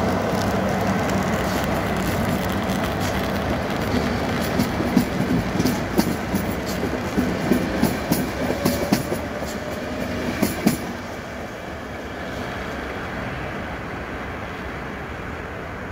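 Train running past on the rails, with a quick series of sharp wheel clicks over rail joints in the middle. The rumble then fades as the train moves away.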